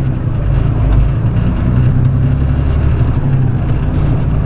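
Flatbed straight truck's engine running steadily, a low-pitched sound with no sharp events.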